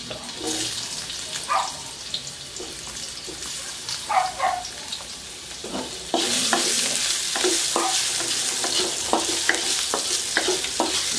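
Sliced ginger sizzling in hot olive oil in a wok, stirred with a wooden spatula that clicks and scrapes against the pan. The sizzle gets louder about six seconds in.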